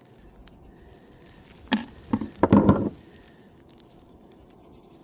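A sharp crack, then about a second of knocking and rustling, as a small bass is brought into a kayak by hand.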